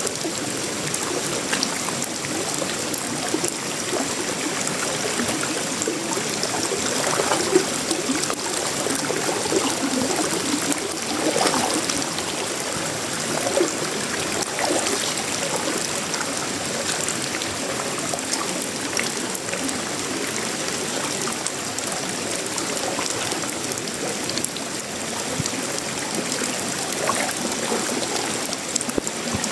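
Tropical rain falling steadily on sheet-metal roofing, wood and leaves: a dense, even patter of many small drops.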